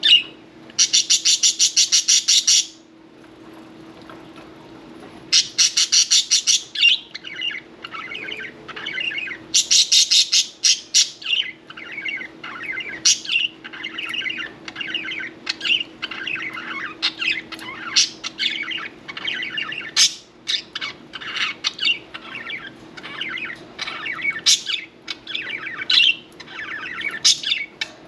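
Budgerigars chirping and warbling, with many short high notes tumbling over one another. In the first dozen seconds, three loud bursts of rapid, evenly spaced sharp pulses, each lasting about two seconds.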